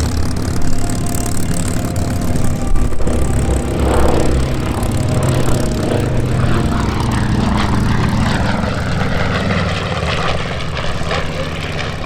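Radial piston engines of a World War II propeller warbird running steadily, a continuous deep drone of engines and propellers.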